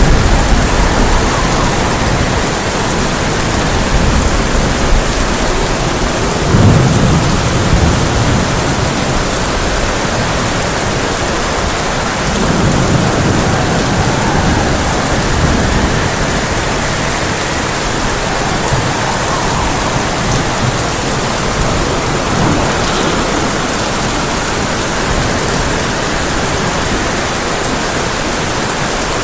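Heavy rain drumming steadily on a tin roof, with low rumbles of thunder rolling in about a quarter of the way through and again near the middle.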